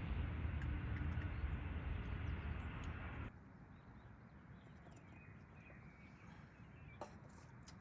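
A steady rushing noise with a heavy low rumble cuts off abruptly about three seconds in. Quieter outdoor ambience follows, with faint high chirps and a single click near the end.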